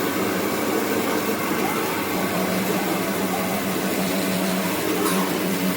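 An engine running steadily at an even pitch, with a constant hum under a noisy wash.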